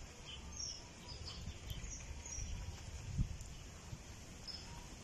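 Scattered short bird chirps over a low rumble, with one soft thump about three seconds in.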